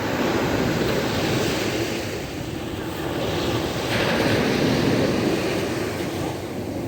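Sea waves washing on the shore: a steady surf wash, with a wave breaking and swelling louder about four seconds in, then easing off.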